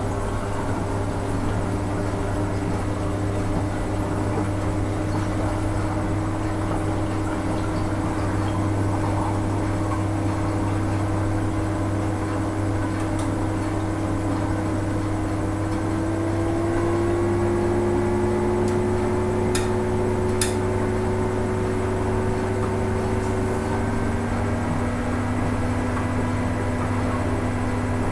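Hoover Ecologic 800 automatic washing machine running on its rinse cycle: a steady motor hum with whining tones that slowly rise in pitch, a little louder about two-thirds of the way through, with a couple of faint clicks.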